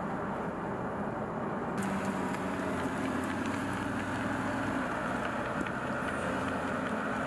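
Dodge Charger SRT Hellcat Redeye's supercharged 6.2-litre V8 cruising, a steady engine drone under road and wind noise. The sound changes abruptly about two seconds in and becomes hissier.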